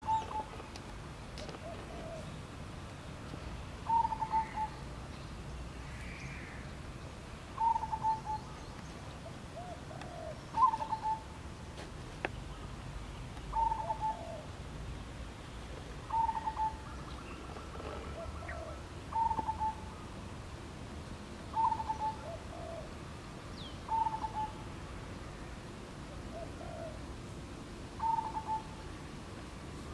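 A bird calling over and over: a short hooting call about every three seconds, each often answered about a second later by a fainter, lower call.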